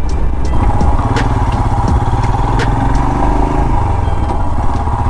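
Royal Enfield Himalayan's single-cylinder engine running under way, with the pitch easing slightly about halfway through and a few sharp clicks over it.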